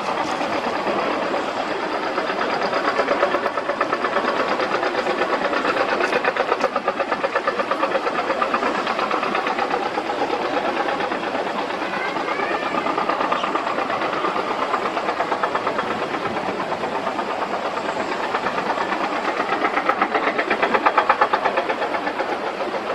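Jet engines of a Japan Airlines Boeing 787-8 running at an airport, a loud steady noise with a fast flutter that swells slightly a few times.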